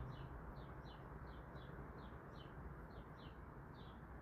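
A bird chirping faintly and repeatedly, short downward-sliding notes about three a second, over a low steady background hum.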